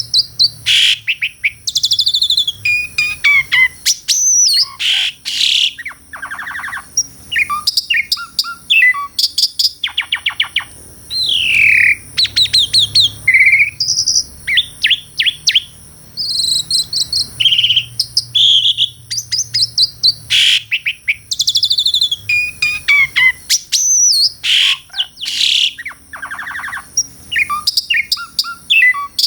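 Asian pied starling (jalak suren) singing a long, varied song: rapid chattering clicks, sliding whistles that rise and fall, and short trills, in phrases with brief pauses between them.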